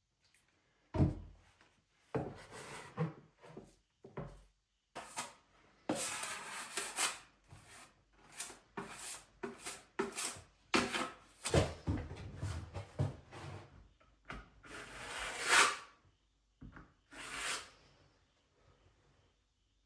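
Irregular knocks, rubs and scrapes of objects being handled, with two longer scraping or rustling passes, one about six seconds in and one near fifteen seconds.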